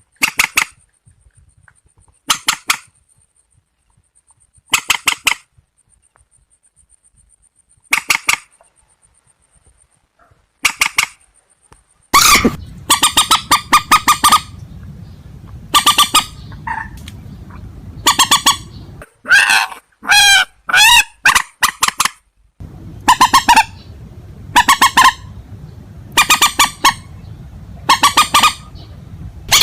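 Recorded calls of rails (purple swamphen / white-breasted waterhen type): short series of rapid, nasal, repeated notes, at first one series every two to three seconds, then from about twelve seconds in coming thicker and louder over a steady low hum.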